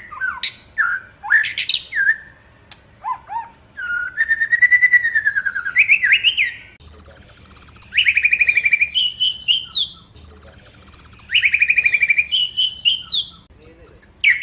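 White-rumped shama (murai batu) singing a long, varied song. Short whistled notes and glides come first, then a long wavering whistle, then fast trilled phrases in loud bursts with brief pauses between.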